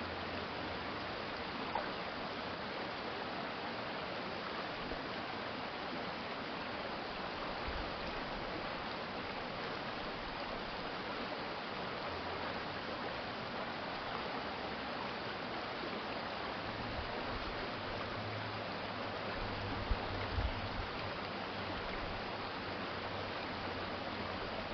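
Water of a city stream flowing steadily in an even, continuous rush. A low hum joins in partway through, with a couple of brief low thumps near the end.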